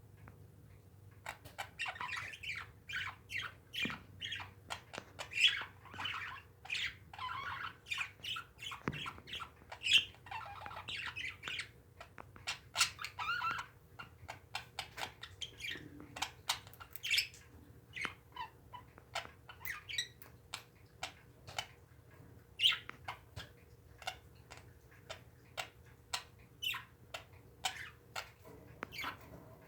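Pet parakeets chattering: a rapid run of short chirps and squawks, busiest in the first half and then sparser.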